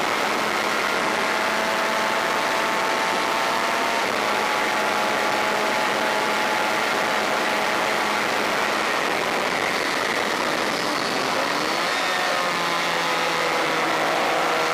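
Onboard sound of a Honda VFR400's V4 racing engine pulling hard, with heavy wind rush over the microphone. The engine pitch shifts about four seconds in and climbs again near the end as the bike accelerates.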